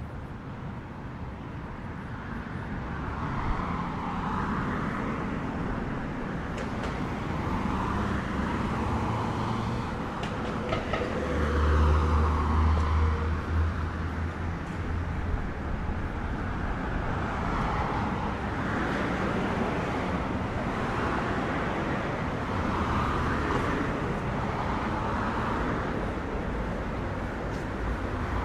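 Street traffic: vehicles passing one after another, each with a swelling tyre swish. A heavier vehicle goes by with a deep rumble about twelve seconds in, the loudest moment.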